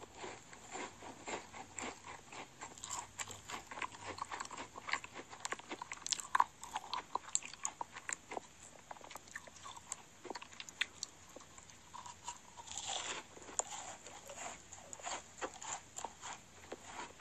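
Close-miked chewing of a macaron: many small crunches and crackles from a mouthful being chewed.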